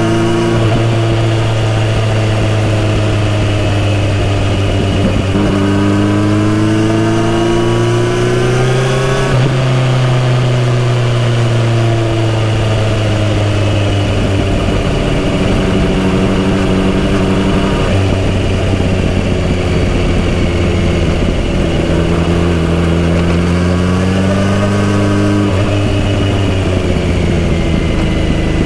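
Kawasaki Z900RS inline-four engine running through a full-system exhaust while riding. The pitch climbs under acceleration and drops sharply at gear changes, about nine seconds in and twice near the end, with a long slow fall in between while the bike slows.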